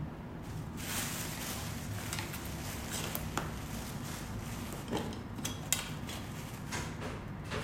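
Light handling noise: rustling with scattered sharp little clicks over a steady low hum.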